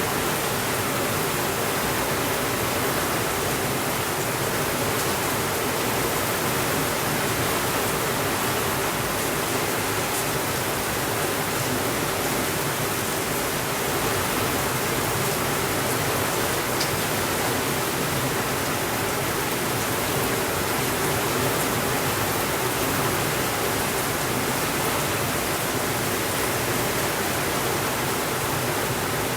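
Steady rainfall, a dense, even hiss with no thunder and no change in level, with an occasional faint tick.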